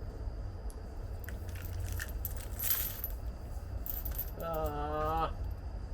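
Light metallic clicks and clinks from handling a speedometer cable and its metal fittings, with a brief scraping rustle about two and a half seconds in, over a steady low hum.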